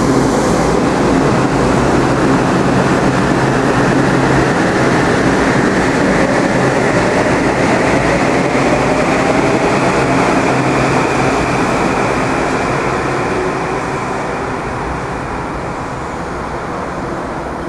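Metro-North electric multiple-unit commuter train running past on the near track, a steady rumble of wheels on rail. It fades over the last few seconds as the train pulls away.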